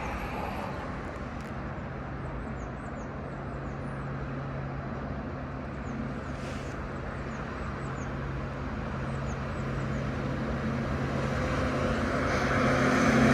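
Diesel train engine running with a steady low hum, getting louder over the last few seconds. Small birds chirp faintly throughout.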